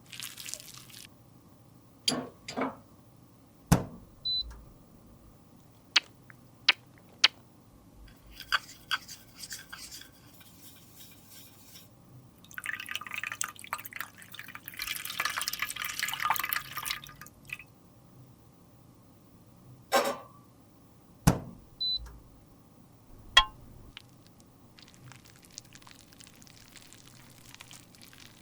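Cosmetic containers and tools handled on a hard surface: scattered sharp clicks and taps, with a few seconds of scraping or mixing about halfway through.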